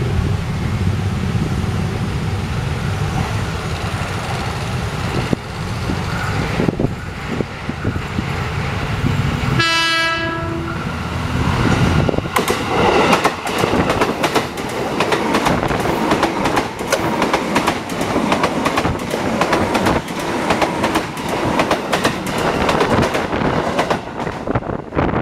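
JR 205 series electric commuter train approaching with a steady rumble, sounding its horn once for about a second midway. It then passes close by, its steel wheels clattering rapidly over the rail joints before the sound fades at the end.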